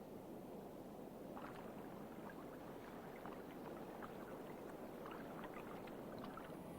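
Faint water sloshing and lapping, with scattered small clicks and knocks.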